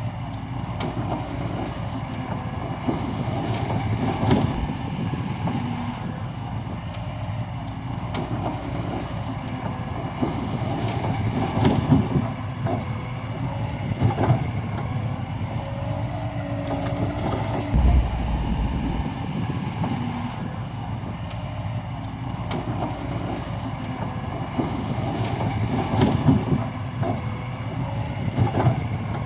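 Heavy diesel earthmoving machinery running steadily, with a low rumble, repeated metal clanks and knocks, and now and then a wavering squeal.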